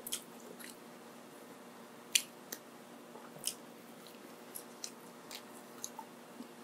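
Close-miked eating: wet mouth clicks and smacks of chewing and biting, coming at irregular intervals, the sharpest about two seconds in, over a faint steady hum.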